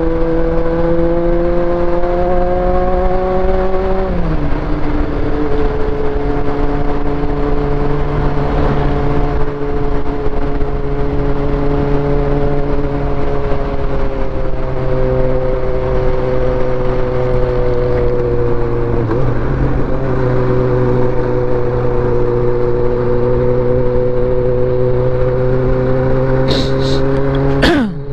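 Motorcycle engine running steadily under way, its pitch creeping slowly up and then falling sharply about four seconds in. The pitch dips again later and falls steeply near the end, where a few short sharp clicks are heard.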